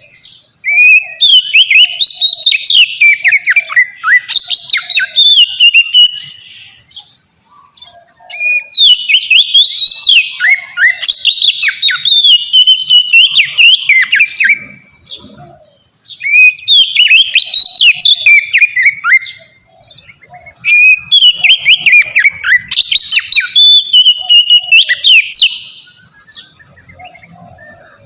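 Oriental magpie-robin (kacer) singing a loud, varied song of rapid high notes. It sings in four long phrases of about four to six seconds each, with short pauses between them.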